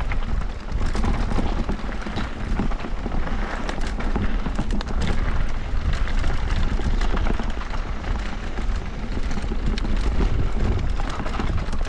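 Wind buffeting the microphone and mountain bike tyres rolling over a rough dirt trail, with many short clicks and knocks as the bike rattles over bumps.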